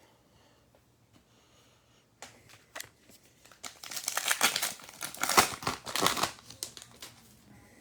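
Trading card pack being torn open: a few sharp ticks, then about three seconds of loud crinkling and tearing of the plastic wrapper, easing off near the end.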